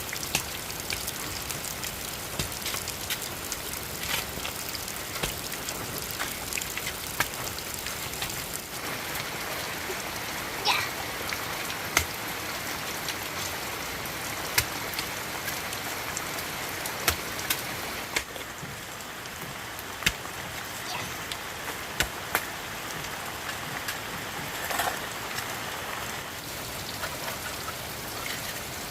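Heavy rain falling steadily, with scattered sharp ticks and taps throughout.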